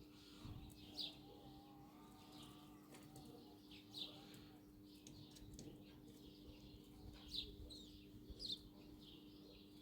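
Faint birds chirping: scattered short, high chirps every few seconds over a steady low hum.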